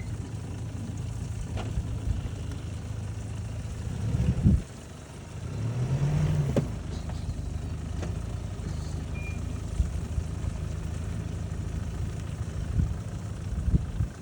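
Jeep Liberty's engine running at low revs as it crawls slowly over a rough mountain track, with a brief rev about six seconds in. A few short thumps come around four seconds in and again near the end.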